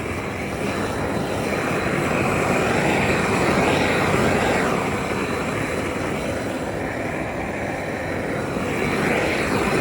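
Loud, steady rushing noise of workshop machinery in a metal-colouring factory, swelling and easing slowly, then stopping abruptly at the very end.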